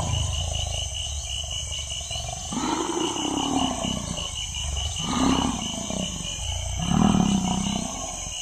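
A lion calling: three loud, deep moaning roars about two seconds apart, over a steady low rumble and insects trilling.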